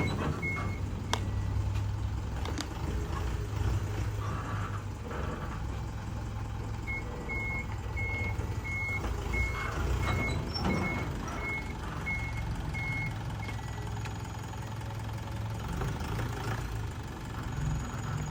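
Mini dump truck's engine running steadily, with a reversing alarm beeping about twice a second for some six seconds in the middle, after a couple of beeps right at the start.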